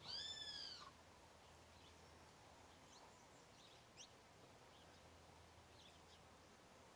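Birds calling faintly: one clear, arched call just after the start, rising then falling in pitch for under a second, then a few faint short chirps scattered through the rest.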